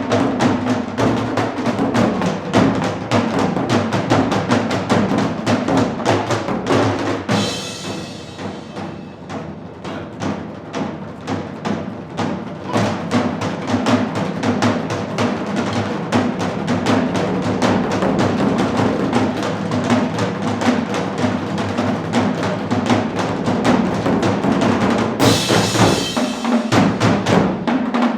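Fusion percussion ensemble drumming a fast, dense rhythm. The playing drops to a softer passage about a third of the way through, then builds back to full force, with a bright cymbal-like crash near the end.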